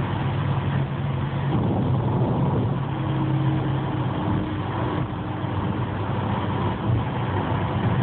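Car travelling at highway speed, heard from inside the cabin: steady road and wind noise with a low engine hum that fades out about four seconds in.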